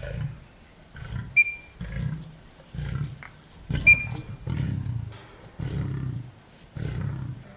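Lion roaring in a series of deep grunting calls, about one a second. Two short high-pitched tones cut in, about one and a half and four seconds in, and are the loudest moments.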